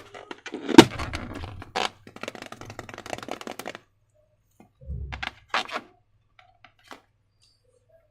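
Slime-making handling sounds: a sharp crack about a second in, then crackly clicking and scraping for a few seconds, and a dull thump around five seconds, followed by a few faint clicks.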